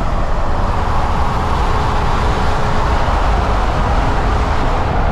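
Steady running noise of a moving road vehicle: a constant low rumble with an even hiss over it.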